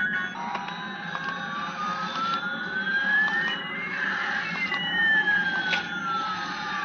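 Electronic siren-like tones: two pitches slide slowly in opposite directions, one rising and one falling, crossing about four seconds in, over a steady low hum.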